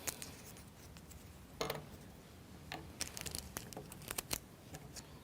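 Faint, scattered clicks and taps of small plywood model parts being handled: a knock about one and a half seconds in, then a run of light clicks in the middle.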